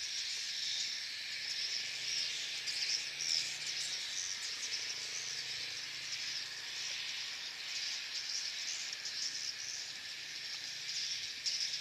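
Dense, steady chorus of many edible-nest swiftlets twittering and chirping at once, a high buzzing chatter with no single call standing out.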